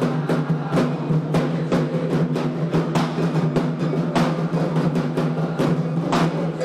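Candomblé atabaque drums playing a fast, steady rhythm of sharp strikes, without a break.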